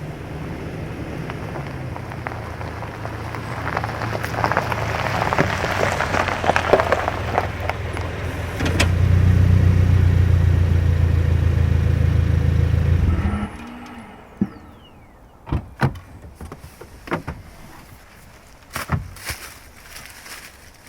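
Car engine running steadily, louder for the last few seconds, then switched off about two-thirds of the way through with a brief falling tone. A few sharp clicks and knocks follow.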